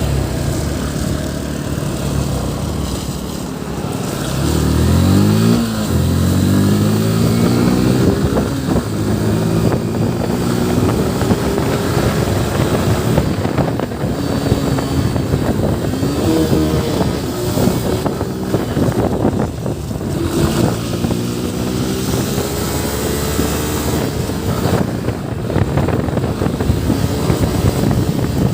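Yamaha FZ V3's single-cylinder engine pulling the bike along, its pitch climbing through several accelerations, with a sharp rev up and drop about five seconds in, over a steady rush of wind and road noise.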